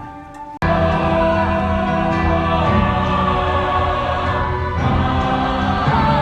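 Music: a choir singing with full accompaniment, cutting in abruptly about half a second in after a brief quiet passage.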